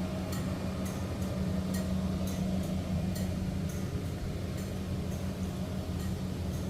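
A steady low mechanical hum, with faint high ticks about twice a second.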